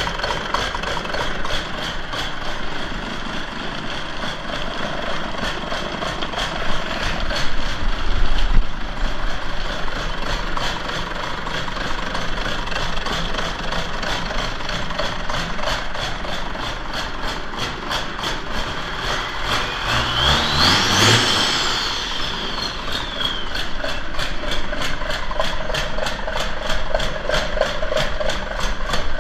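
Cummins 8.3-litre inline-six diesel engine running at idle with a steady rhythmic clatter. About twenty seconds in it is revved briefly, with a high whine that rises and then falls away.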